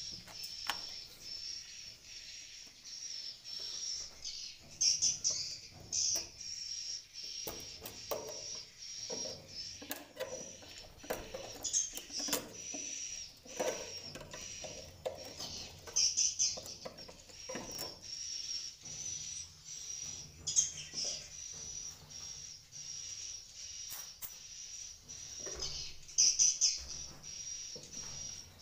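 Swiftlets chirping in a constant high twitter inside a swiftlet house, swelling every few seconds. Scattered short clicks and rustles sound underneath.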